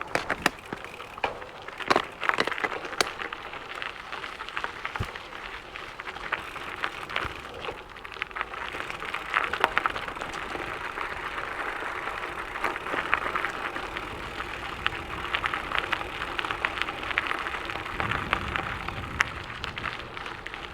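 Gravel bike tyres crunching and crackling over a loose gravel trail, with sharp clicks and knocks from stones and the bike, busiest in the first few seconds before settling into a steady crackle.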